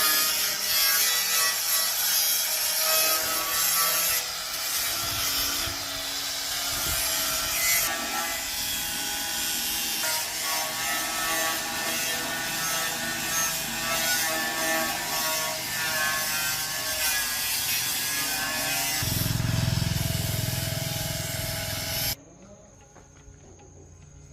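Steady abrasive rubbing of tool work on a surface, cutting off suddenly near the end.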